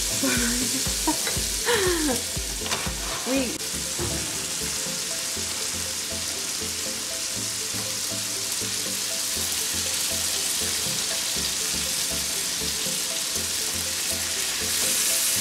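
Chopped bacon frying with a steady sizzle, joined from about halfway through by marinated ribeye steaks laid into a hot buttered grill pan.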